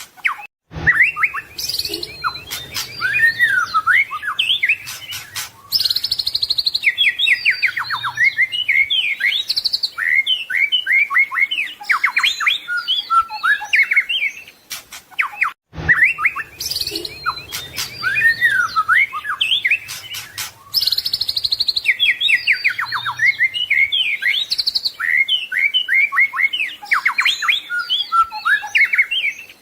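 White-rumped shama (murai batu) singing a rapid, varied song of loud whistles, trills and fast chirp runs packed with mimicked phrases (isian). The same passage of about fifteen seconds plays twice, with a brief break before each run.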